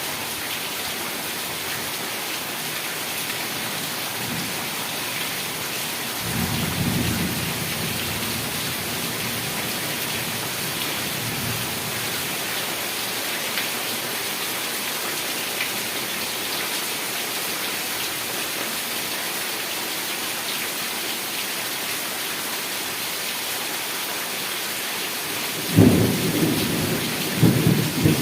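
Heavy rain falling steadily, with a low roll of thunder about six seconds in and closer, sharper thunder near the end.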